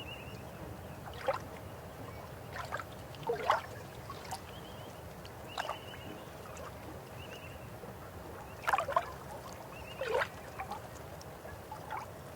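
River water running over rocks: a steady rush with irregular gurgles and plops, about nine in the span, the loudest a few seconds in and again about two-thirds of the way through.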